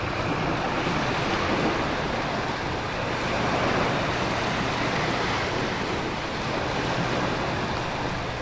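Stormy ocean ambience: a dense, steady rush of surf and wind, swelling gently a couple of times.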